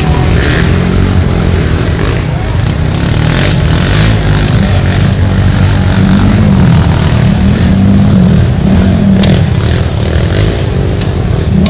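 Racing ATV engines running hard and loud, their pitch climbing and dropping several times as the throttle is worked.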